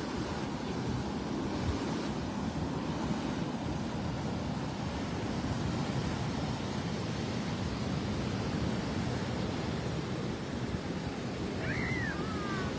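Rough surf breaking and washing up the beach, a steady rushing noise. Near the end a short high call slides down in pitch twice.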